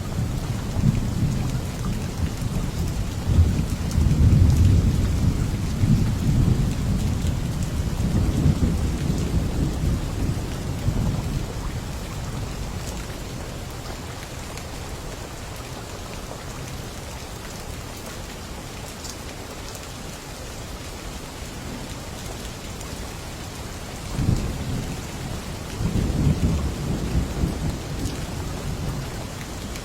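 Steady heavy rain with rolls of thunder: a long rumble through the first ten seconds or so, then two shorter rumbles near the end.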